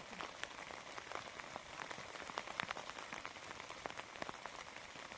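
Steady rain falling, with many separate drop strikes ticking through it.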